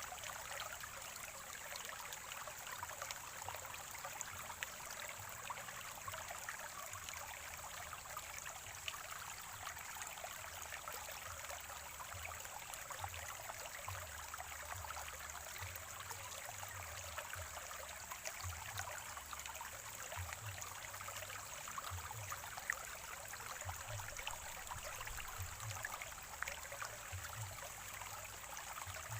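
Spring water in a small stream trickling and gurgling steadily over rocks.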